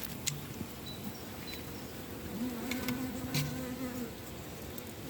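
Honeybees buzzing around a hive, with one bee buzzing close for over a second in the middle.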